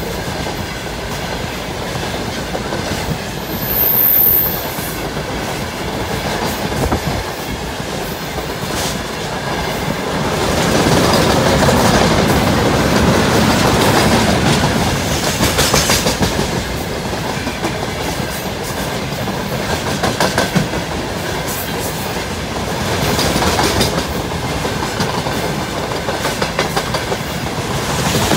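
Freight train of open gondola wagons and tank cars rolling past close by, the wheels clacking steadily over the rail joints, louder through the middle. A brief high-pitched squeak about four seconds in.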